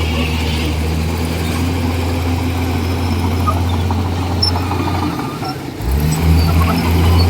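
Komatsu D41E bulldozer's diesel engine running with a steady low hum. About five seconds in it dips briefly, then picks up again more strongly, with scattered clanks over it.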